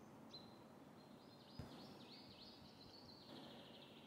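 Near silence: quiet room tone with a faint high whistle, then a short run of quick high chirps from a bird, about a second in.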